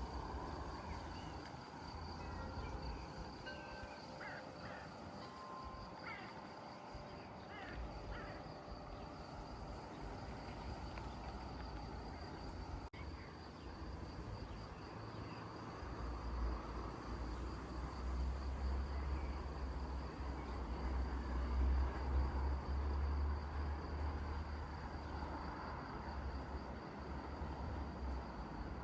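Countryside ambience: a steady high-pitched insect drone throughout, with a few short bird chirps in the first third. A low rumble builds from about halfway.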